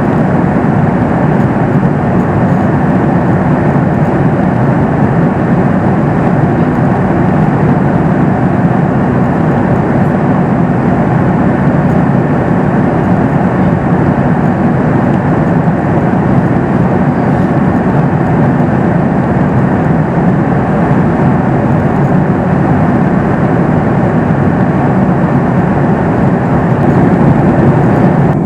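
Steady cabin noise inside a Boeing 737 MAX 8 in flight: an even rush of airflow and engine noise from its CFM LEAP-1B engines.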